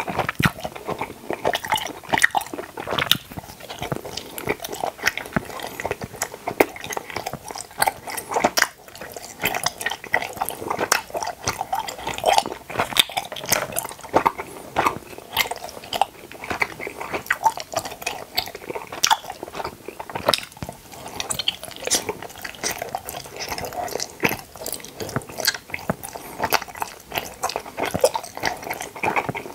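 Close-miked chewing of tooth-shaped gummy jelly candies: constant wet, sticky mouth clicks and smacks as the gummies are bitten and chewed.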